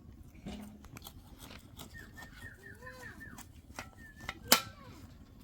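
Birds chirping in a quick run of short, falling calls, with a few lower calls, scattered light clicks and one sharp knock about four and a half seconds in.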